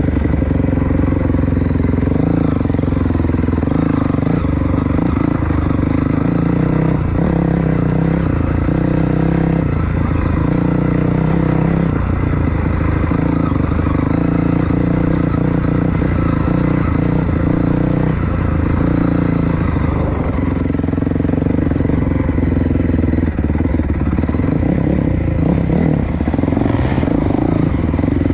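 Dirt bike engine running while being ridden, its pitch shifting a little as the throttle changes.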